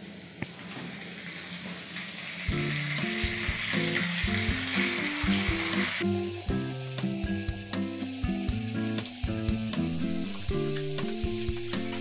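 Chopped onion frying in hot mustard oil in a steel kadai, a steady sizzle. About six seconds in it gives way to raw chicken pieces sizzling in the oil with stirring. Background music with a melody comes in about two and a half seconds in and runs under the frying.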